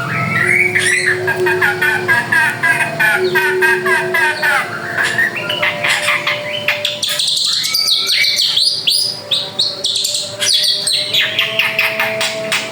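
A drongo singing a rapid, varied song of quick chirps, clicking notes and gliding whistles, with hardly a break.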